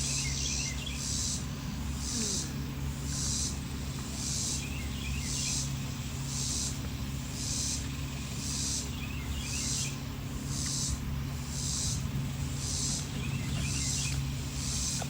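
Insects calling in a rhythmic, high-pitched pulse about once a second, over a steady low hum.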